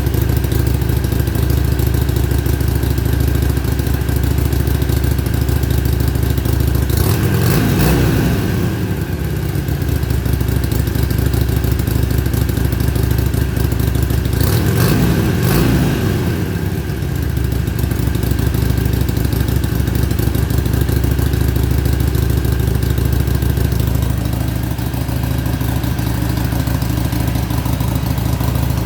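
Harley-Davidson Iron 883's air-cooled V-twin idling through its stock exhaust, blipped twice, about seven and about fourteen seconds in, each rev rising and dropping back to idle within about two seconds.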